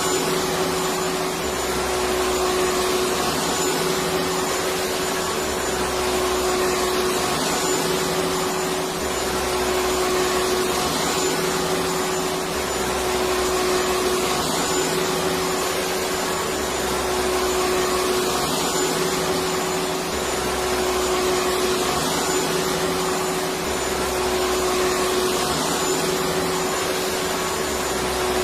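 Electric vacuum cleaner running steadily: an even rush of air with a constant motor tone, swelling slightly every few seconds.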